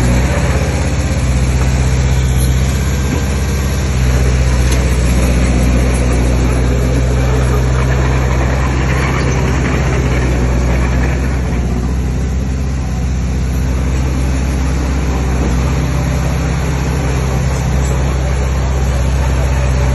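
Heavy diesel engine of earthmoving machinery running steadily: a deep, even engine hum with a broad mechanical noise above it. It gets a little louder about four seconds in and eases slightly around the middle.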